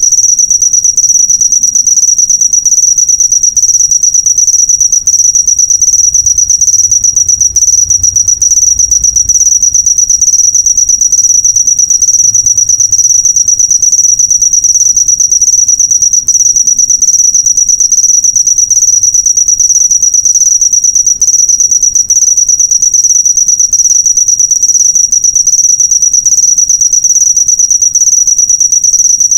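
Cricket chirping in a loud, unbroken high-pitched trill of rapid pulses, steady throughout.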